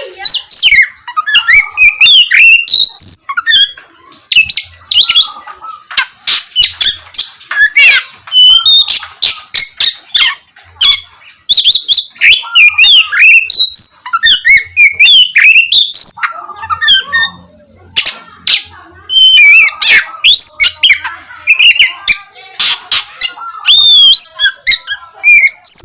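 Oriental magpie-robin (kacer) singing loudly: rapid, varied phrases of sliding whistles and sharp clicky notes, with a few short pauses.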